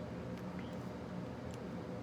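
Steady low background hum with two faint small clicks of plastic shock parts being handled, one about half a second in and one about a second and a half in.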